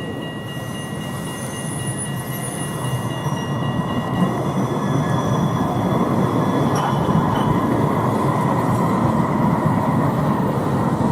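Tram running on rails, its noise growing louder about halfway through and then holding steady. Several thin, high steady tones ring over it in the first few seconds and then fade.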